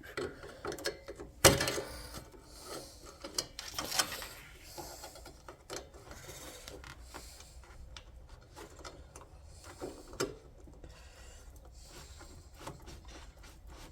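Scattered clicks, knocks and rattles of hands and tools working on a car's hood latch and its broken release cable, with the sharpest knock about a second and a half in.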